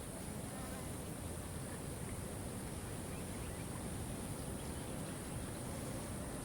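Steady rushing of a waterfall, with a thin, steady high insect buzz over it and a few faint bird chirps.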